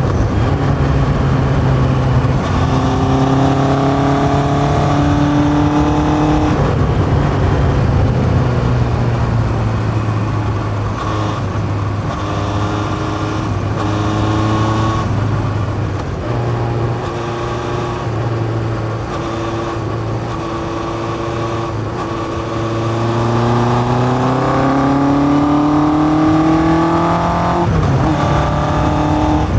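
1981 Yamaha XJ550's inline-four running through a 4-into-1 exhaust with open K&N pod filters, ridden on the road: the engine note climbs under acceleration and drops sharply at a gear change about six and a half seconds in, eases off through the middle, then climbs again to another shift near the end.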